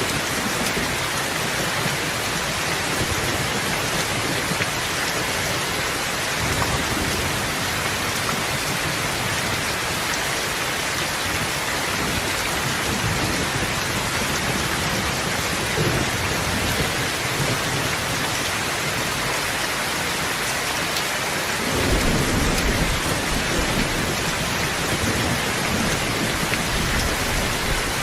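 Steady rainfall, with a low rumble of thunder rolling in about three-quarters of the way through and running on.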